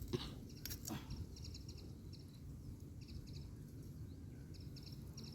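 Faint outdoor ambience with clusters of short high chirps repeating throughout, and two or three soft knocks in the first second.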